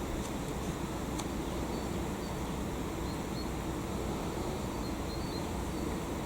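Steady outdoor background noise with a low rumble, broken by a few faint, brief high chirps.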